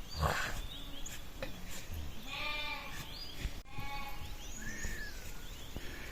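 Sheep in a flock bleating: several separate calls a second or so apart, one a thin high bleat. A short noisy burst comes right at the start.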